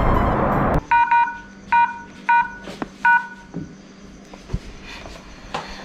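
A loud, steady rush of noise cuts off abruptly under a second in, followed by four short electronic beeps, each a clear tone with overtones, spaced about two-thirds of a second apart.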